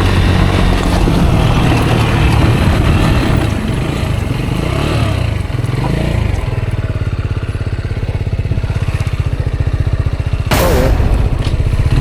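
Rieju Aventura 125's single-cylinder four-stroke engine running as the bike is ridden. The engine note wavers and drops about halfway through, then settles into a slower, evenly pulsing run. A short, loud rush of noise comes near the end.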